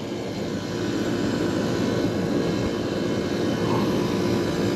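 Rooftop R22 air-conditioning unit running steadily, its compressor and condenser fan giving a constant hum under an even rush of fan noise, while the system is being charged with refrigerant.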